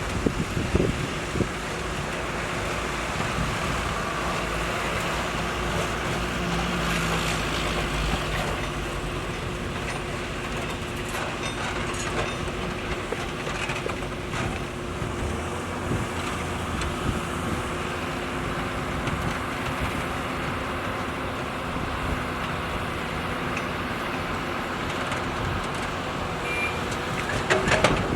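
Excavator's diesel engine running steadily at work, with a steady hum and a few short knocks near the start and again near the end.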